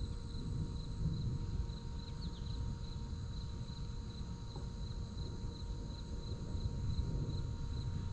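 Crickets chirping steadily, about two or three chirps a second, over a constant low, uneven rumble.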